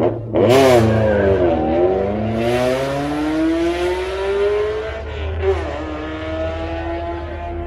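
Car engine accelerating hard. It comes in loud about half a second in and revs steadily upward, shifts up a gear about five and a half seconds in, then pulls on at a steady pitch.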